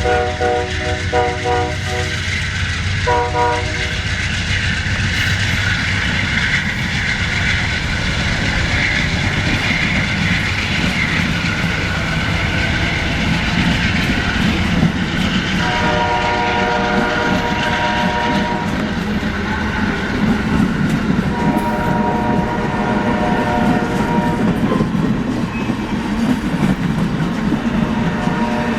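A train rolling past with a steady rumble of wheels on rail. Its multi-note horn sounds in short blasts over the first few seconds, then two long blasts about midway, and briefly again near the end.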